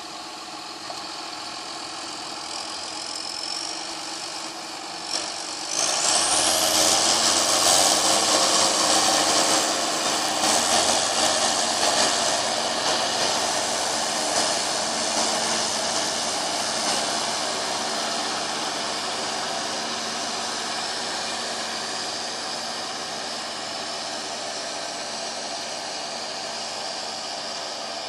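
John Deere 7430 tractor's six-cylinder diesel engine running steadily. About six seconds in it gets much louder with a high rising whine, then slowly fades.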